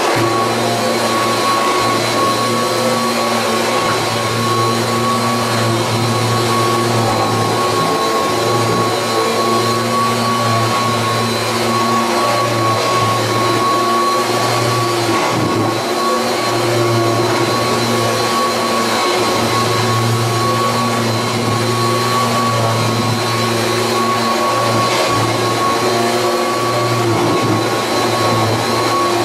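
1986 Kirby Heritage 2 upright vacuum cleaner running steadily, its motor giving a constant high whine over a low hum.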